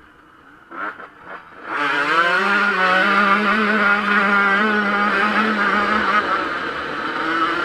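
Yamaha YZ125 two-stroke motocross engine: quiet at first, a few short throttle blips about a second in, then revving up and running steadily at high revs.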